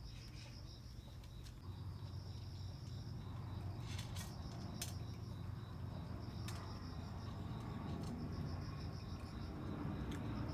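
Insects chirping in a steady, fast-pulsing trill, with a few sharp clicks about four to five seconds in over a low background hum.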